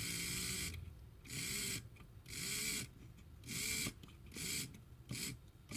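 Tender-drive motor of an HO scale Airfix Castle locomotive whirring on its first test run, in about five or six short bursts roughly a second apart, each rising and falling in pitch.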